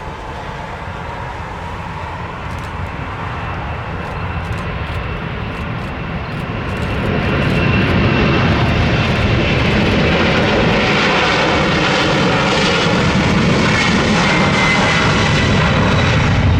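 Jet noise from a Boeing 767-400ER's two GE CF6-80C2 turbofan engines, growing louder as the airliner comes closer. It reaches full loudness about halfway through and holds there, with a faint high whine over the roar.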